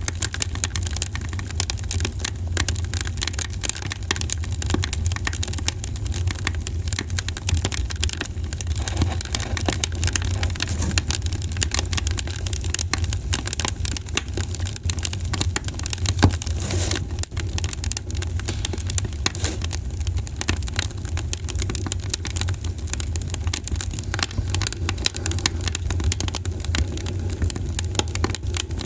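Campfire crackling, with dense irregular sharp pops and snaps and one louder pop about halfway through, over a steady low rumble.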